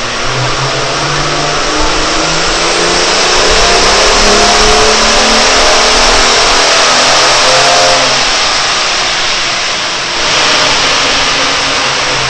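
Car engine making a full-throttle run on a chassis dynamometer: its note climbs steadily in pitch and loudness for about eight seconds, then drops away as the throttle is released, over a loud steady rush of noise.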